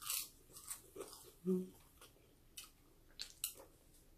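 Faint eating sounds at close range: chewing with wet smacks and small mouth clicks, and a short hummed sound about one and a half seconds in.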